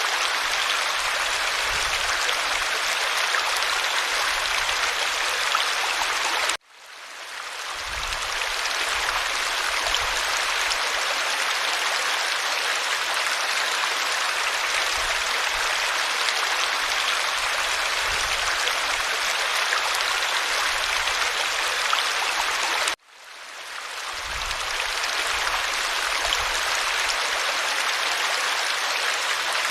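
Creek water running steadily. Twice the sound cuts out abruptly, about a quarter of the way in and again about three-quarters through, each time fading back in over a second or two.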